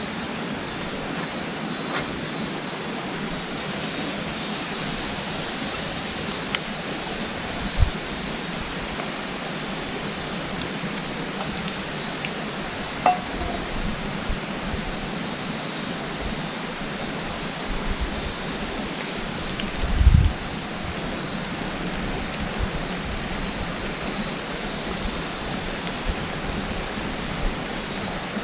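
Steady rushing water, an even hiss without pause, with a few faint knocks and a low thump about twenty seconds in.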